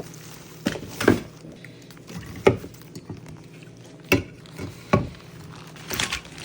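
Short, irregular knocks and rustles, about seven of them, as supplies such as bottles and a bundle of firewood are picked up and handled.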